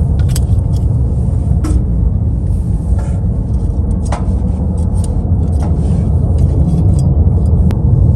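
Wood fire crackling with scattered sharp pops over a loud, steady low rumble.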